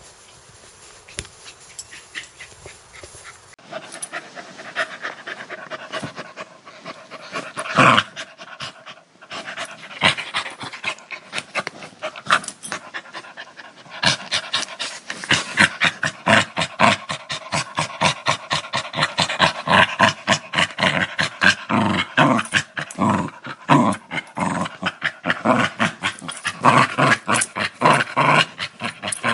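A dog growling, quieter for the first few seconds and then louder and denser from about four seconds in. From about fourteen seconds it goes in rapid, rhythmic pulses of about three a second.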